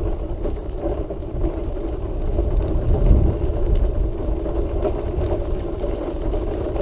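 Quickie Q700 mid-wheel-drive power wheelchair with Spider Trac suspension driving over a path, slightly noisy: a steady motor hum over a low rumble from the wheels, swelling a little about three seconds in.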